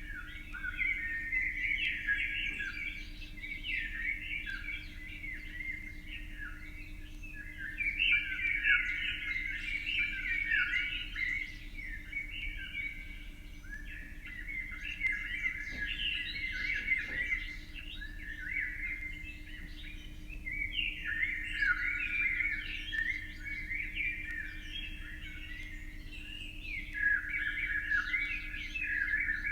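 Birds chirping and twittering in a dense, continuous chorus, the calls coming in waves with short lulls every several seconds.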